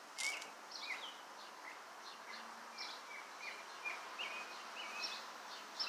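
Birds chirping outdoors: a string of short, high chirps with quick pitch slides, about two a second, over faint background hiss. A brief click sounds just after the start.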